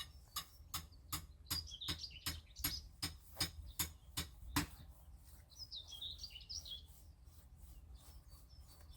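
Small birds chirping, with about a dozen quick, evenly spaced knocks, two or three a second, through the first half.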